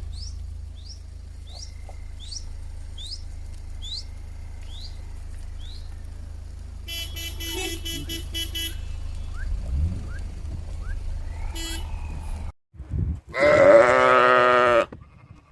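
A run of short animal-call clips: repeated short falling bird chirps for the first few seconds, then bleating calls from farm animals, the loudest and longest near the end.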